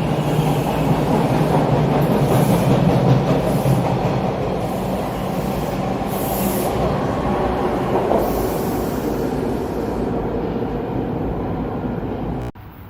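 TTC subway train moving through the station at platform level, a steady rumble of motors and steel wheels on the rails with a light wheel squeal. It cuts off suddenly near the end.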